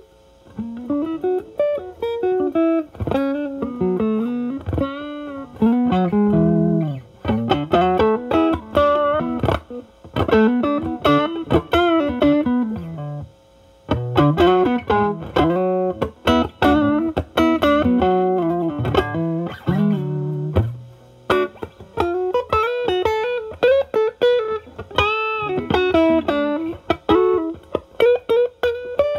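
Stratocaster electric guitar playing blues lead lines with string bends and vibrato, through a Ceriatone Centura Klon-clone overdrive pedal into a Marshall Valvestate amp's drive channel, in a cleaned-up, lower-gain setting. There are short pauses about halfway through and again about two-thirds of the way in.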